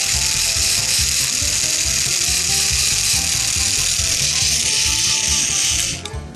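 Plarail battery toy train's small electric motor and plastic gearbox running with a steady whirr, cutting off about six seconds in. This unit's speed switch will not stay in high and springs back. Background music plays throughout.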